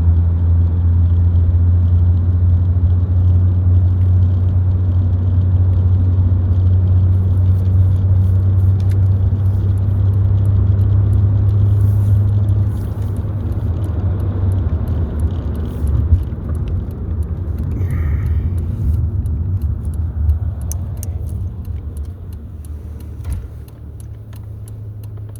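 Car cabin rumble from driving, heavy and steady for the first half, then rougher and gradually quieter as the car slows, with scattered small clicks and rattles near the end.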